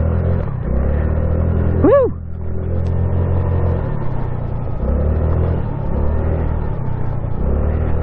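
A Honda Navi's small single-cylinder four-stroke engine runs under way. Its speed rises and drops several times as the throttle is worked.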